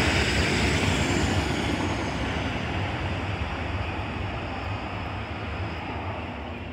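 Class 150 diesel multiple unit pulling away from the platform, its engine and running noise fading steadily as it moves off, with a faint high whine that falls slightly in pitch.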